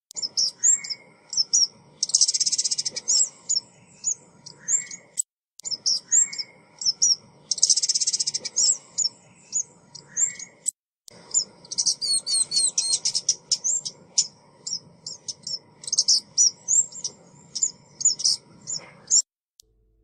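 Recorded song of a female ốc mít bird, the kind played as a trapping lure. Rapid high-pitched chirps and twitters are broken by bursts of fast trill, with short upward notes repeating underneath. The recording cuts off about a second before the end.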